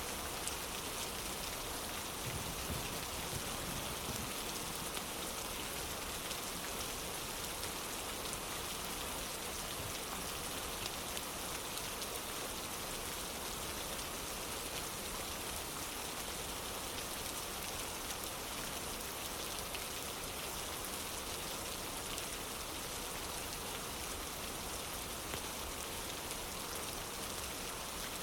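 Steady rain falling on a wooden porch: an even hiss with scattered faint drips and ticks.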